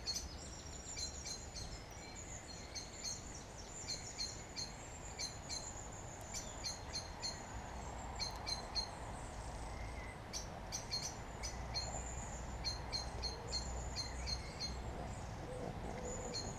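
Long-tailed tits calling in the trees: quick clusters of short, high, thin notes repeated over and over, over a low steady rumble.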